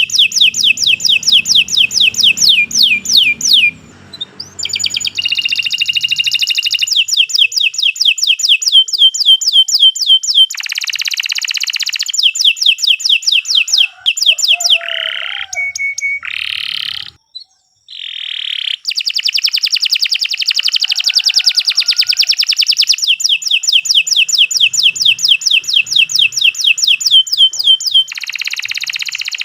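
Domestic canary singing a long, nearly unbroken song of rapid trills: high notes repeated several times a second in runs, changing from one trill to the next, with short breaks about four seconds in and again around seventeen seconds.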